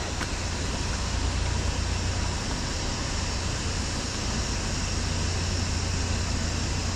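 A steady rushing noise with a low hum beneath it, even throughout.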